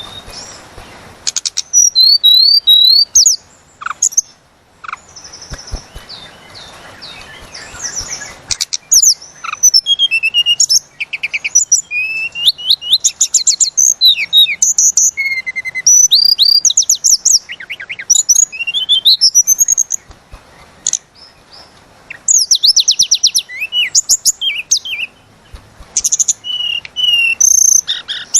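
A tledekan gunung songbird singing energetically: rapid high-pitched whistles, sweeping slurred notes and fast trills in long rolling runs, broken by a couple of brief pauses.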